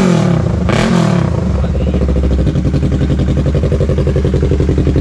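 Yamaha R3 parallel-twin engine with an open aftermarket exhaust, blipped up once about a second in and dropping back to a steady loud idle.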